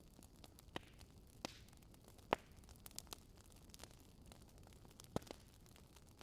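Wood fire in a fireplace crackling: scattered sharp pops and snaps over a faint low hiss, the loudest pop a little over two seconds in and another sharp one near the five-second mark.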